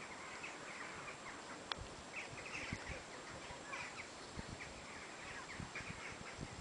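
Birds chirping, many short high notes in quick, irregular runs, over a steady outdoor hiss, with a few soft low thumps on the microphone.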